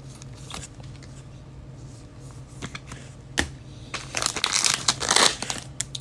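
Trading card pack wrapper being crinkled and torn open, loud from about four seconds in, after a few light clicks.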